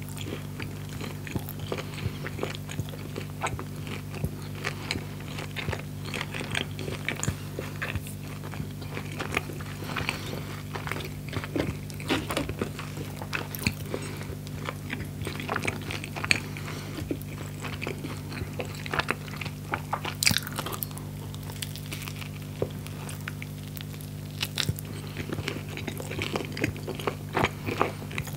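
Close-miked eating: crunchy bites and chewing of a grilled pita sandwich filled with fried chicken, a run of short sharp crunches throughout, over a steady low hum.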